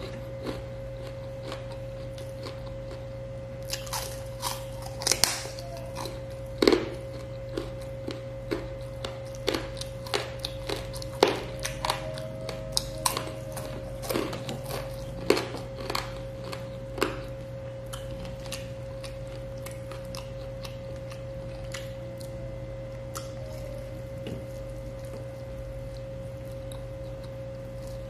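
Close-miked eating: chewing with frequent sharp clicks and crunches, busiest in the first half and thinning out to a few faint ones after about 17 seconds. A steady low hum runs underneath.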